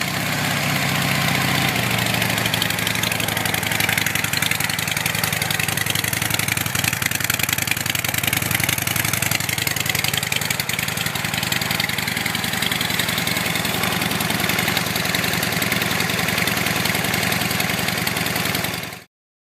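2011 Harley-Davidson Dyna Super Glide Custom's air-cooled V-twin idling steadily through a Vance & Hines 2-into-1 exhaust with a high-flow air filter, just after starting. It cuts off abruptly near the end.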